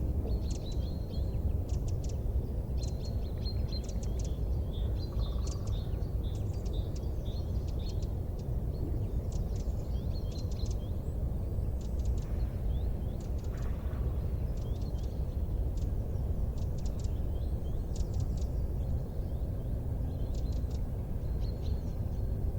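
Small birds chirping in repeated clusters of short, high calls over a steady low rumbling noise.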